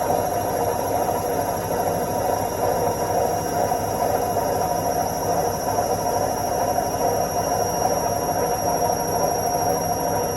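Washing machine in its spin cycle: a steady hum and rumble of the spinning drum and motor, even and unchanging throughout.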